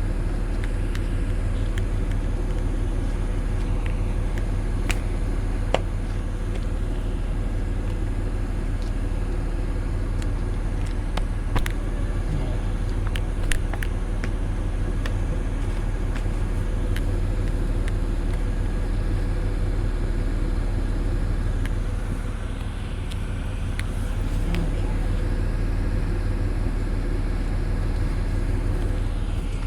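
Vehicle engine idling steadily, with a few sharp metallic clicks over it.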